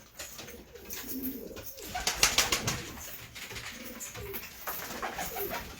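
Domestic pigeons cooing in low, short calls, with a short burst of clattering scuffling noise about two seconds in.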